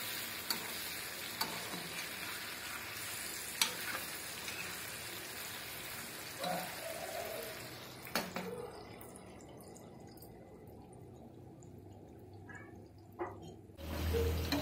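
Tiger prawns sizzling in hot oil in a kadai, stirred with a steel spatula that clinks against the pan a few times. Past the middle the sizzle falls to a quieter, duller hiss for several seconds, then comes back louder near the end as the prawns, now in gravy, are stirred again.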